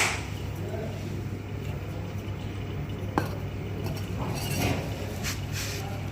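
Steady low machine hum, with a sharp metallic clink at the start and another about three seconds in.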